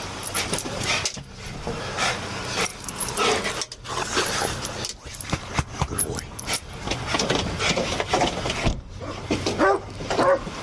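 Irregular rustling of clothing with metallic clinking and jangling, heard close up on a police body camera during a pat-down search of a suspect lying on the ground.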